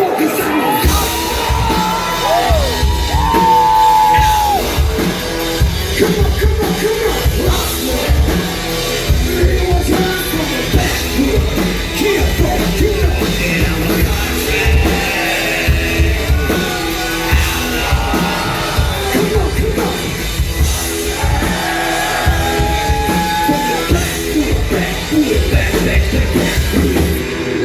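Live country-rap band music played loud in a large room, with a steady beat and sung or shouted vocal lines over it.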